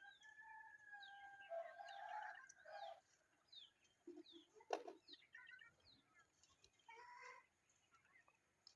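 Faint bird calls: a long held whistled note over the first few seconds, then a string of short falling chirps about two a second. A single sharp click near the middle is the loudest moment.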